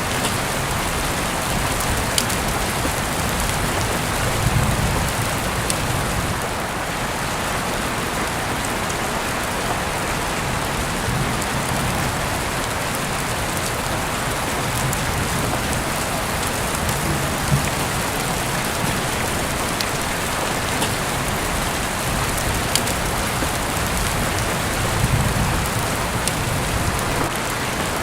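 Heavy rain falling steadily, heard through an open window, with scattered sharper drips and a few soft low rumbling swells.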